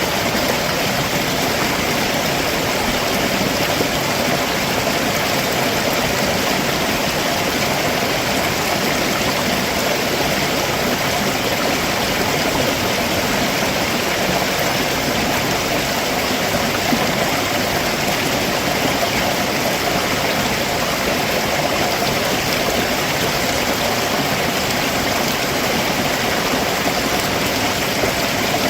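Stream water running over rocks in a steady, even rush.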